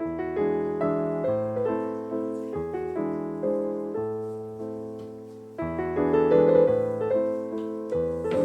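Background music: solo piano playing gentle repeated chords, softening about five seconds in and then coming back louder.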